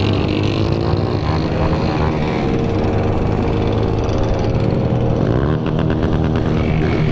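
Motorcycle engine running, its pitch rising in the first second, holding steady, then falling about five and a half seconds in.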